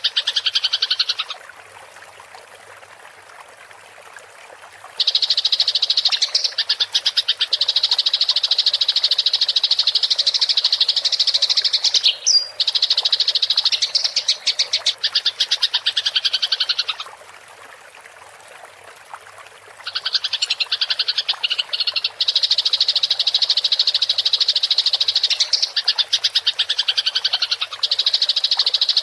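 Eurasian tree sparrows giving their fast, rolling fighting chatter: long, loud stretches of rapid, high chirps. These break off twice for a few seconds into quieter pauses.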